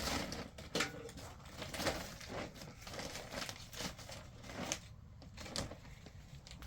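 Irregular rustling and crinkling handling noise with scattered sharp clicks and scrapes, loudest in the first two seconds.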